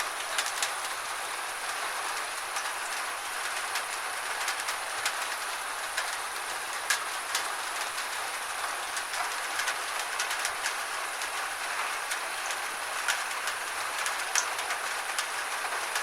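Gentle rain falling: a steady hiss with scattered sharp ticks of single drops hitting a surface.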